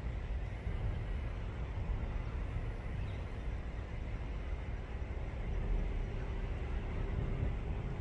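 Steady low rumble of outdoor background noise, with no distinct calls standing out.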